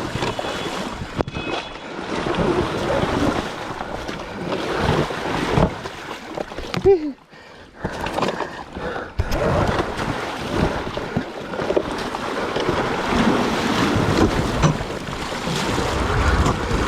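Wind buffeting the camera microphone over an electric off-road motorcycle riding rough trail, with frequent knocks and jolts from the terrain. About seven seconds in there is a sharp knock, then a short pitched sound, and the noise briefly drops away.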